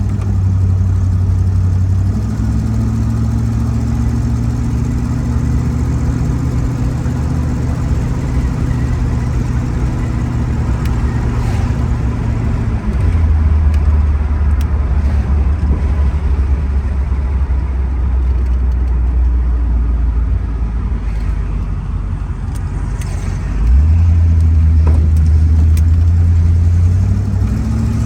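Ford Mustang engine running with a steady, low note that shifts in pitch and loudness several times, with a sudden louder step about three-quarters of the way through.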